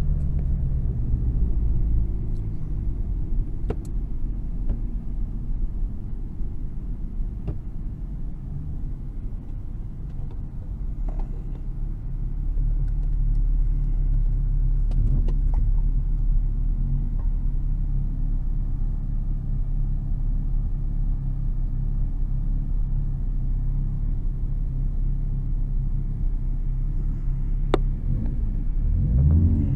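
Car engine running steadily at low revs, then revving up just before the end.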